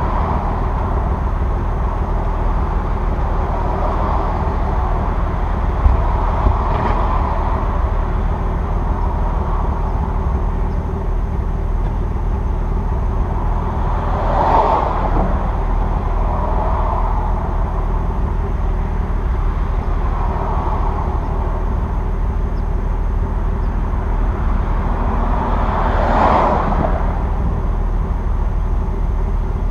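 2002 Nissan Maxima's 3.5 L VQ35DE V6 idling steadily after a cold start, through equal-length headers, a stock catalytic converter and a straight pipe with the resonator removed, then the muffler. Two brief swells of noise pass over it, about halfway and near the end.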